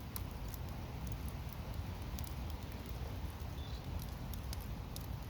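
Lumpwood charcoal fire crackling and ticking in scattered small pops over a steady low rumble, as it burns off its smoke while still getting lit.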